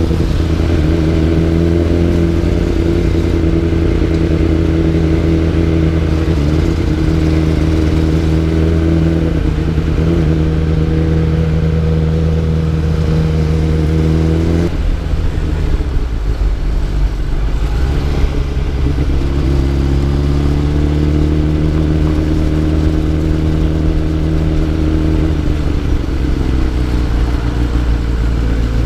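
Motorcycle engine running at a steady cruise. About halfway through its note drops and thins, then picks back up and holds steady again.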